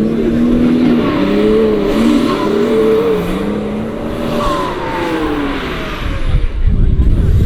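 Off-road 4x4's engine revving up and down, its pitch rising and falling every second or so. About six seconds in, a loud low rumble takes over.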